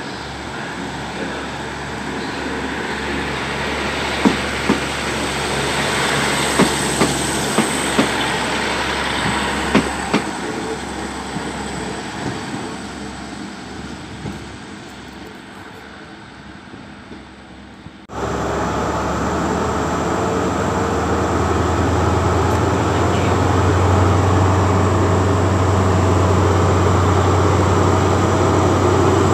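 A two-car Class 150 Sprinter diesel multiple unit runs past along the platform, its wheels clicking over rail joints, and its sound fades as it draws away. After a sudden cut about 18 seconds in, the diesel engine of a Class 43 HST power car runs steadily with a loud low hum.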